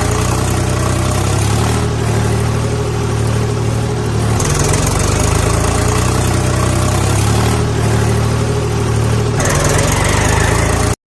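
Engine idling with a steady low chug, changing abruptly in tone about four and a half seconds and nine and a half seconds in, then cutting off suddenly near the end.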